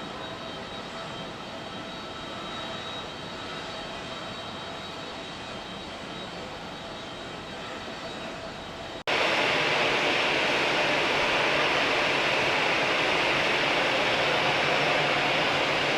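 Jet airliner engines running with a steady high whine over a rushing noise. About nine seconds in, the sound cuts abruptly to a louder, even rushing noise.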